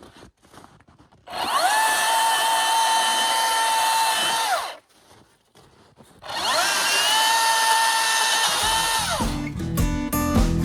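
Milwaukee battery top-handle chainsaw making two cuts through firewood, each about three seconds long. For each cut the motor winds up to a steady high whine, holds while it cuts, then winds down. Between the cuts it goes silent instead of idling.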